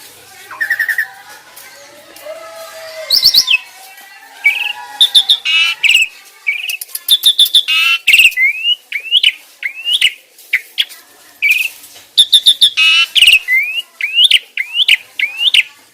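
Starlings calling in a busy mix of chirps, harsh notes and whistles, with a run of short, sharply rising whistled notes repeated about twice a second in the second half. It is a song-training recording of the kind played to pet starlings to get them singing.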